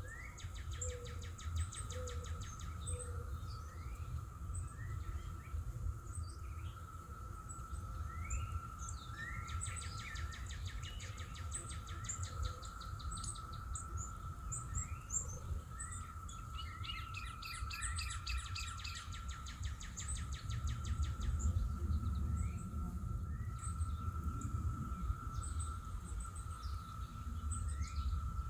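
Background songbirds singing and calling: many short rising chirps and a few rapid trills. Under them are a steady high-pitched hum and a constant low rumble.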